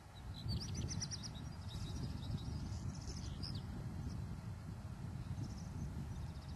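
A small bird chirping in short, quick high phrases: about half a second in, again around three seconds, and briefly near the end, over a steady low rumble of open-air background noise.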